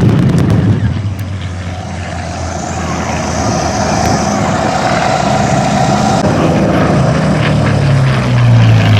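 Propeller-driven warbird flying a low pass: engine noise building as it approaches, then dropping in pitch as it goes by near the end.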